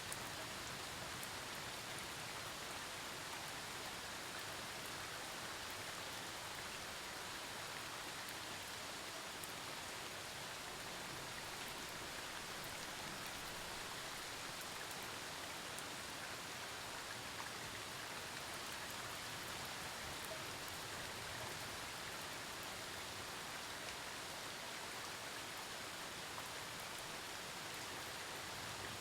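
Steady thunderstorm rain falling, an even hiss of drops hitting surfaces with faint individual drop ticks, holding at one level throughout.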